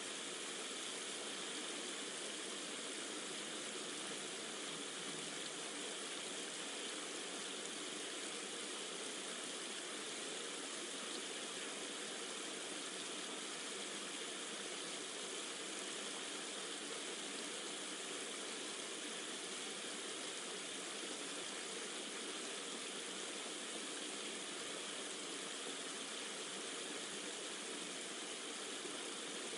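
Steady water ambience of rain and a flowing stream, an even unbroken wash of sound with no change.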